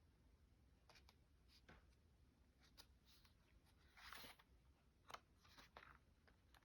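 Faint handling of paper: a few soft rustles and crinkles, the longest and loudest about four seconds in.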